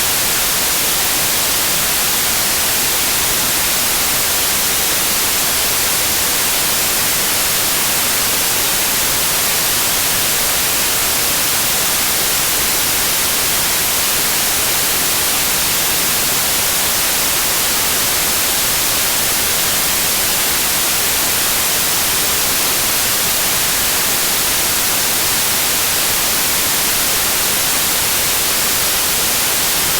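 Steady white noise: an even, unbroken hiss, brightest in the high treble, with no changes in level.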